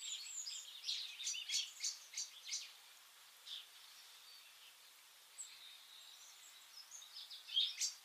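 Small birds calling: a run of brief, high chirps and twitters that thins out after about three seconds, a few faint notes in the middle, then more chirps near the end.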